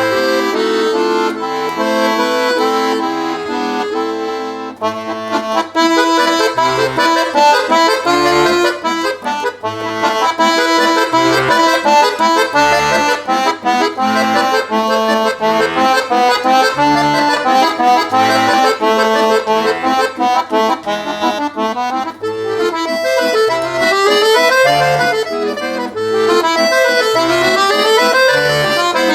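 Solo accordion playing a Russian folk song arrangement: a melody over separate low bass notes, with fast rising and falling runs near the end.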